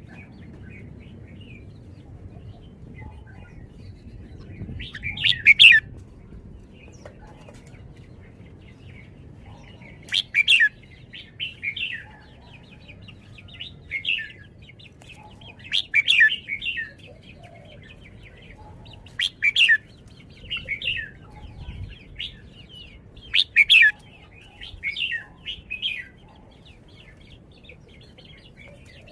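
A caged red-whiskered bulbul singing short, loud whistled phrases, repeated every one to three seconds.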